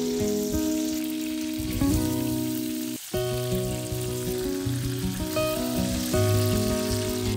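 Chicken legs frying in hot fat in a pan, a steady sizzle, with background music playing over it. Everything drops out briefly about three seconds in.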